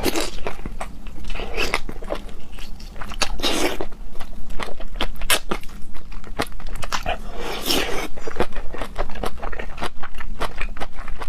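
Close-miked mouth sounds of a person eating scallop meat: a steady run of wet smacking clicks from chewing, with a few louder slurps or sucks, near the start and again about two, four and eight seconds in.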